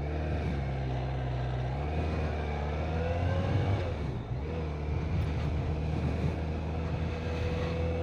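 BMW K1200RS motorcycle's inline-four engine under way, rising in pitch as it accelerates, dropping back about four seconds in, then running at a steady speed.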